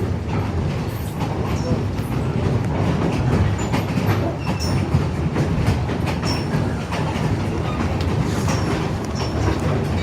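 Narrow-gauge passenger train rolling along, heard from aboard: a steady rumble of the cars with irregular wheel clicks and clatter from the rails.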